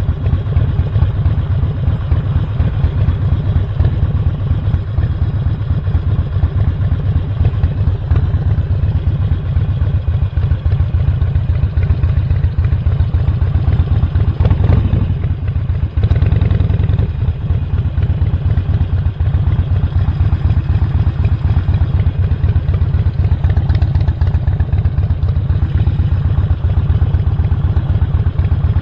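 Harley-Davidson Sportster Roadster's 1200 cc V-twin with Stage 1 intake and exhaust, running steadily under way. The sound drops off briefly about halfway through, then picks up again.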